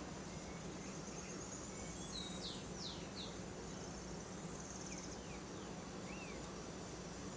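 Faint forest ambience: several short, high bird chirps and sweeping notes and a high, fine trill in the middle, over a steady low hum.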